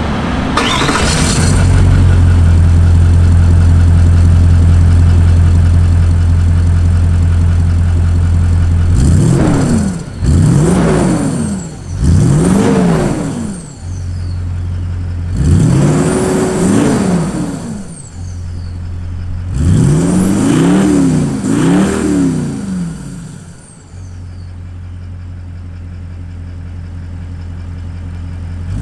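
A Toyota 200 Series LandCruiser's twin-turbo V8 diesel, through a twin 3-inch into 4-inch stainless turbo-back exhaust, cold-starts in the first second and idles steadily. From about nine seconds in it is revved six times, the fourth rev held for about two seconds, with a faint high whistle falling away after the revs. It settles back to a quieter idle for the last few seconds.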